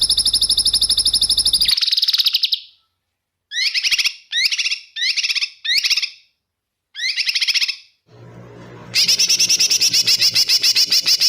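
Small songbird giving rapid, machine-gun-like trills, the 'tembakan' rapid-fire song prized as masteran material: a long fast trill that stops about two seconds in, then five short trilled bursts, then another long trill from about nine seconds in over a faint low hum.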